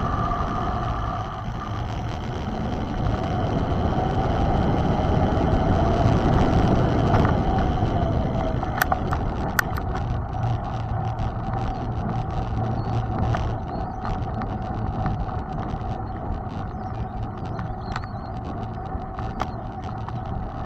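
Mountain bike being ridden: steady wind and tyre rumble on the rider-mounted microphone, with a thin steady whine. From about nine seconds in, many short rattling clicks come from the bike over rough ground.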